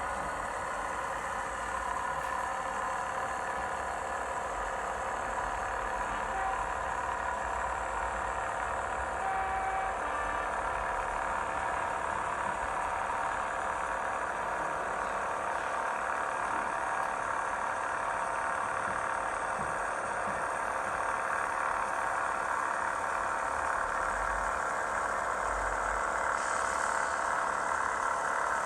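Sound-fitted O gauge model of a GWR diesel railcar: the ESU LokSound decoder's recorded diesel engine sound running steadily through the model's small onboard speaker, growing slightly louder toward the end.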